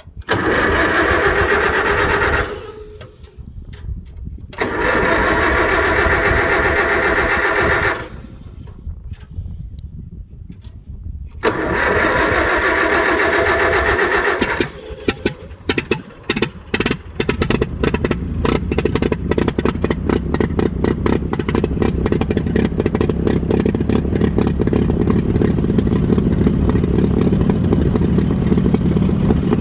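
Allis-Chalmers WD45 tractor being started after sitting a few hours: the starter cranks the engine in three separate bursts of two to three seconds, the engine catches and fires unevenly for a couple of seconds, then settles into steady running.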